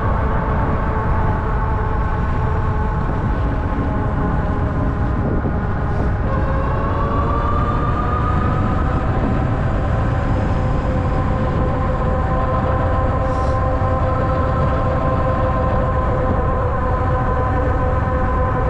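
Ariel Rider Grizzly e-bike's electric hub motors whining under a strong rush of wind and tyre noise. The whine rises in pitch about six seconds in as the bike speeds up, then holds steady.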